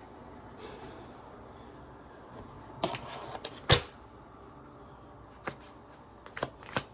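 Tarot cards being handled: a few soft card sounds and one sharp knock near the middle, then quick snapping clicks of the deck being shuffled near the end.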